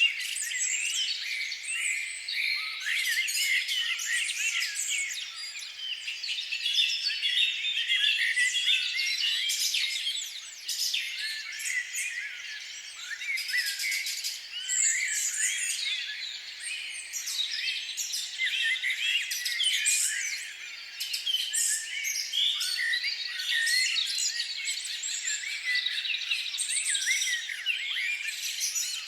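Budgerigars chattering and warbling, many quick overlapping chirps and squeaks that go on without a break.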